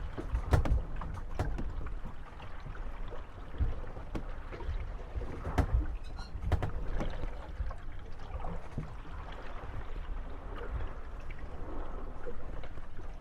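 Moored wooden gondolas rocking on small waves, creaking and knocking against one another, with water lapping at the hulls. Several sharp knocks stand out, the loudest about half a second in and around five and a half seconds.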